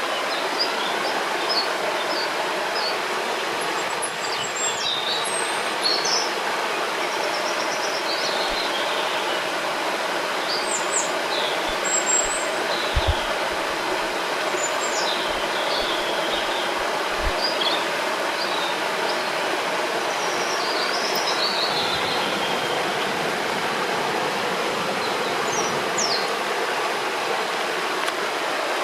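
Steady rushing of a river's flowing water, with songbirds chirping and whistling over it in short calls throughout. A few faint low thuds come in around the middle.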